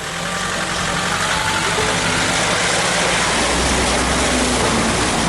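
Off-road 4x4 engine running as the vehicle drives through shallow water, with a rushing wash of spray that builds about a second in.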